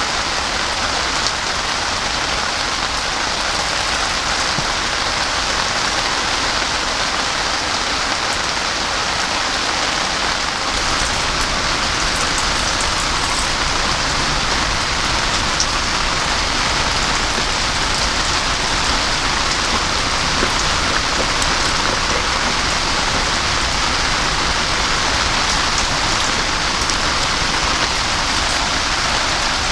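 Heavy rain pouring steadily, an even hiss of drops with no letup.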